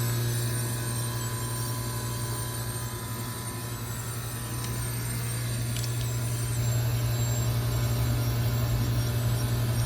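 A 2005 York Olympian (Latitude 10) heat pump outdoor unit running with a steady low compressor hum and a light whooshing noise; it gets a little louder about six and a half seconds in.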